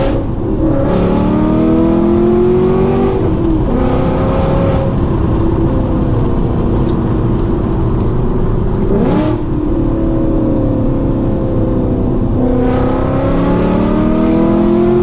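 VW Passat W8's 4.0-litre W8 eight-cylinder engine pulling hard through a custom straight-through Guerrilla exhaust with its bypass valve open. It rises in pitch, drops at a gear change about three seconds in, climbs and holds, dips again about nine seconds in, then climbs once more near the end.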